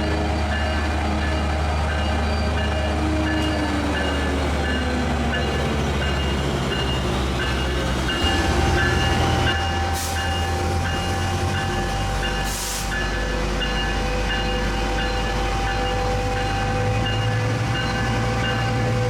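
Metrolink commuter train's diesel locomotive running steadily, its engine note falling in pitch a few seconds in. A steady whine joins partway through, and two short hisses of air come past the middle.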